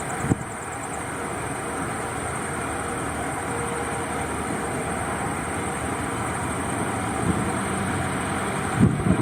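Airbus A350's twin jet engines at takeoff thrust, a steady loud rush of engine noise. Wind buffets the microphone with low thumps just after the start and again near the end.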